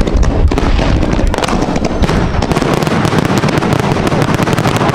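Many fireworks going off at once: a dense, unbroken run of crackling pops and sharp bangs over deep booms, like a barrage.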